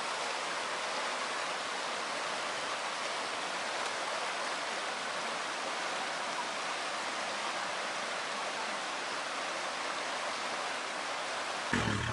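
Rushing stream water making a steady, even hiss. Near the end a low rumble comes in abruptly.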